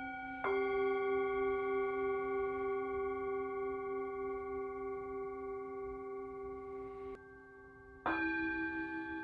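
Singing bowls struck and left ringing: one strike about half a second in rings on with a wavering, slowly fading tone of several pitches, cuts off suddenly after about seven seconds, and another bowl is struck near the end.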